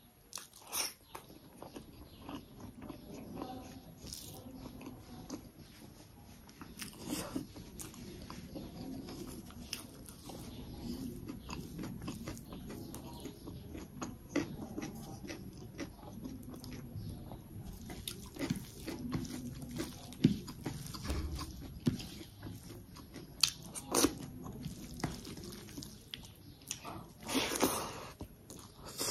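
Close-miked chewing and wet mouth sounds of a person eating rice and chicken gravy by hand, with soft clicks throughout and several louder bites.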